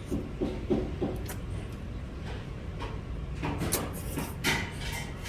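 Eating sounds as jjajangmyeon is eaten: a few short clicks and mouth sounds in the first second, then noodles slurped about three and a half seconds in, over a steady low hum.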